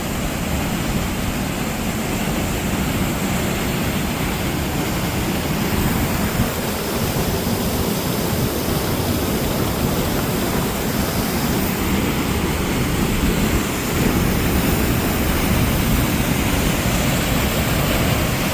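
Waterfall on a creek pouring steadily, a loud even rush of falling water.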